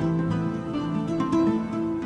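Background music: plucked acoustic guitar playing a gentle melody of sustained notes.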